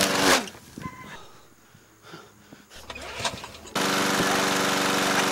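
Lawn mower engine running, then winding down with a falling pitch and stopping just after the start. A few seconds of quiet with faint small sounds follow, then the mower engine is suddenly running again at full level.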